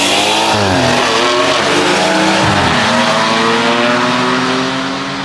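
BMW 540i and M3 turbocharged straight-six engines (B58 and S55) accelerating hard down the drag strip, the pitch climbing and dropping at gear changes about a second in and again near two and a half seconds, then holding steady at high revs.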